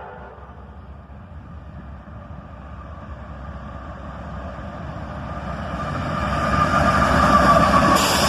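A CSX GE AC4400CW diesel locomotive approaching with its train, its engine and wheel noise growing steadily louder from about halfway through until it is close and loud near the end.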